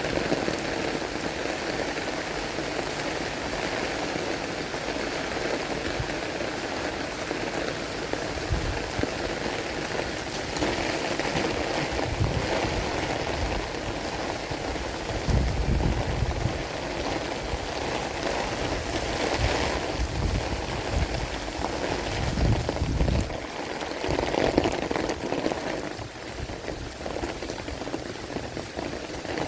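Heavy rain falling steadily, a constant hiss of drops on surfaces, with low rumbles now and then through the middle stretch.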